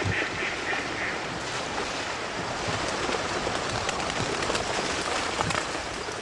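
A large flock of ducks descending into flooded timber: a steady rush of wings and water, with a run of short quacks in the first second.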